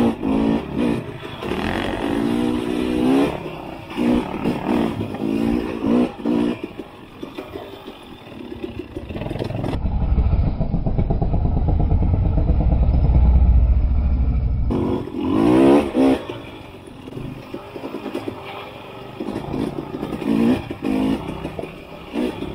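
Dual-sport motorcycle engine revving up and down in short bursts while riding over rough trail. In the middle there is a stretch of several seconds of heavy low rumble with the engine sound faded.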